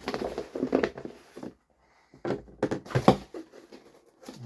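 Boxes and packaging being handled: rustling with knocks and clicks, in two bouts.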